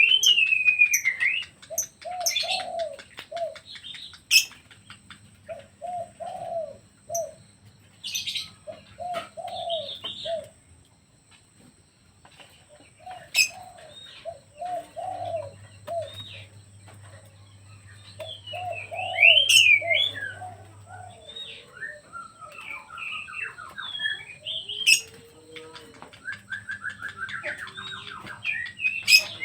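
Pet doves cooing in repeated short phrases, mixed with smaller birds chirping and warbling higher up, and a few sharp snaps now and then.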